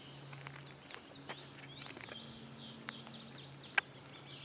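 Faint birdsong from the woods: several short, quick chirps, over a low steady hum. A single sharp click near the end.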